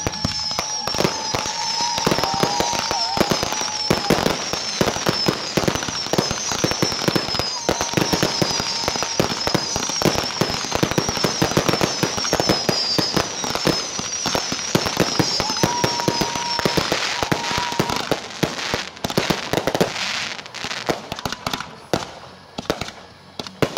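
Consumer aerial fireworks firing a dense barrage of bangs and crackling bursts. Over the first seventeen seconds or so this runs with a string of short high whistles, each falling a little in pitch, and at times a lower steady whistle. The shots thin out and grow quieter near the end.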